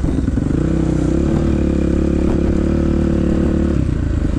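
Dirt bike engine under throttle: the pitch climbs in the first second and holds high and steady, then drops about three-quarters of the way through as the throttle is rolled off.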